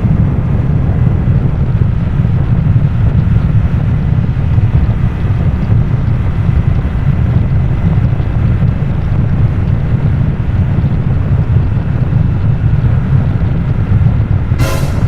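Harley-Davidson Nightster's V-twin running steadily through a Jekill & Hyde adjustable exhaust on the move, with heavy wind noise on the microphone. A brief sharp sound just before the end.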